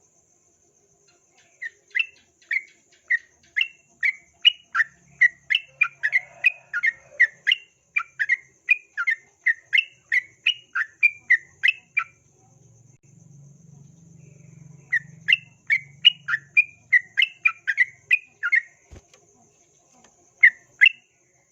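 Yellow-vented bulbul (trucukan) calling in a fast run of short, sharp two-note chirps, about two a second. It pauses for a few seconds about halfway through, then takes up the same rapid series again and gives two more notes near the end.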